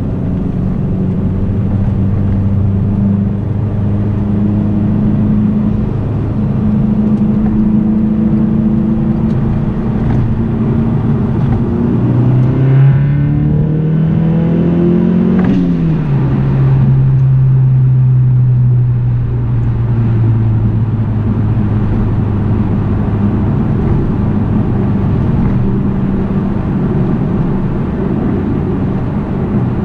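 The tuned Chevrolet Cobalt SS's turbocharged 2.0-litre LNF four-cylinder, heard from inside the cabin while cruising. About twelve seconds in, the engine note climbs under acceleration for a few seconds, then drops sharply at a gear change and settles back to a steady, slowly falling cruise note.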